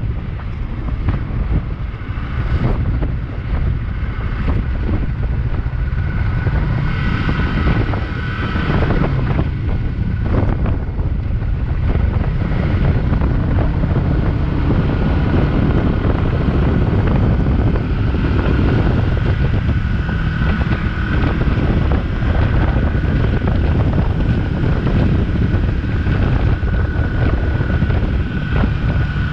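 Wind buffeting the microphone on a moving motorcycle, over the Yamaha XS400 parallel-twin engine running at speed.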